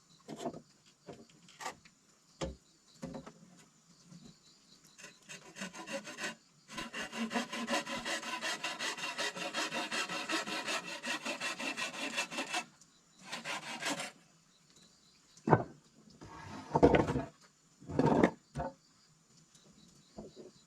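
Rapid, even rasping strokes on wood for about six seconds in the middle, as in hand sawing or filing, with scattered knocks and a few heavier thumps before and after.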